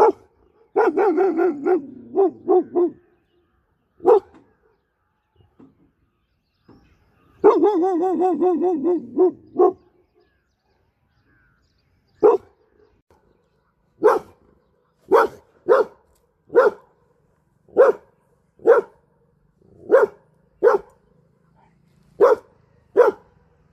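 A dog gives two long, wavering, howl-like cries, then barks repeatedly, single barks about one a second.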